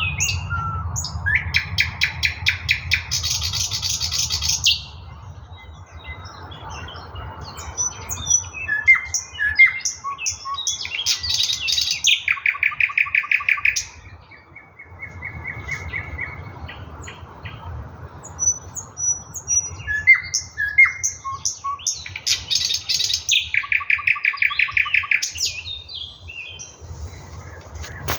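Nightingale singing: three long phrases of fast repeated notes, with shorter whistles, chirps and trills between them. A low steady hum runs underneath.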